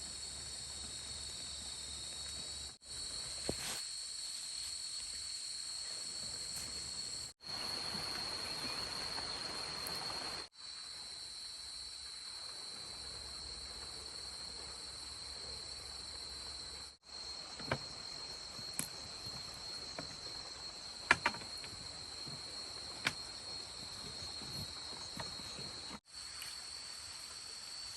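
Steady, high-pitched chorus of insects, with a few short sharp clicks or knocks in the second half. The sound drops out abruptly several times for a moment.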